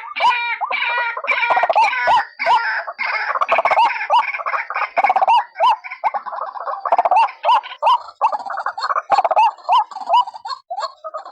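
White-breasted waterhen calling: a rapid, continuous run of short, repeated hooked notes, with several birds' calls overlapping.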